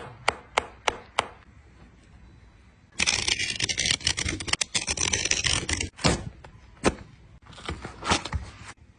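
A sneaker being cut and pried apart by hand: a few quick rasping strokes, a pause, then about three seconds of dense scraping and tearing, two single sharp strokes and a last short scraping burst.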